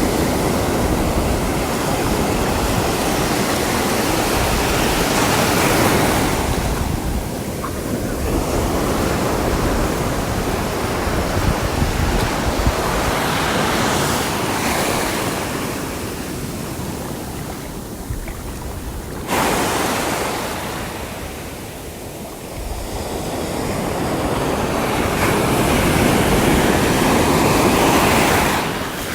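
Sea waves washing onto a shore: a steady surf noise that swells and ebbs every several seconds, with a sudden step up in level about two thirds of the way through.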